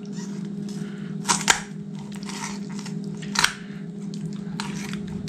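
Kitchen shears cutting through a raw chicken's rib bones along the backbone: soft crunching with three sharp snaps, two close together about a second and a half in and another near three and a half seconds, over a steady low hum.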